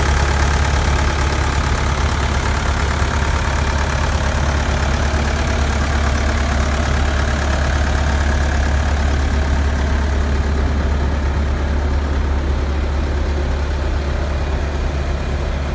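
Bobcat A300 skid steer's diesel engine running steadily at idle with a deep, even hum; the sound softens a little about ten seconds in.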